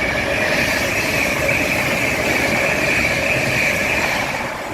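Train running past at the station: a loud, steady rail noise with a high whine over it, easing off at the very end.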